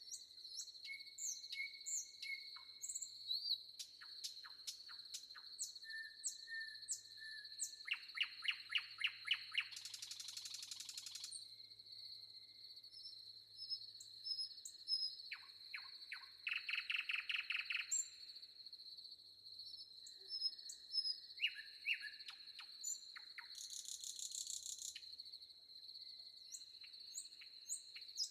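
Several forest birds chirping and whistling, with a rapid trill three times (about a third of the way in, past the middle, and near the end), over a steady high-pitched insect drone.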